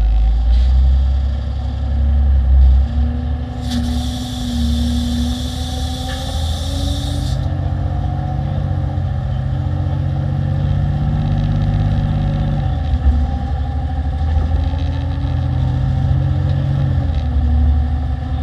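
Diesel engine of a 2016 Peterbilt 348 plow truck running under way, its pitch climbing and dropping back several times. A hiss sounds from about four seconds in for three or four seconds.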